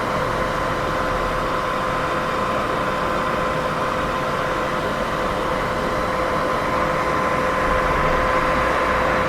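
Steady sleep-aid white noise: an even, unchanging hiss, fullest in the middle range, with two faint steady tones under it, one an octave above the other. A low rumble swells slightly near the end.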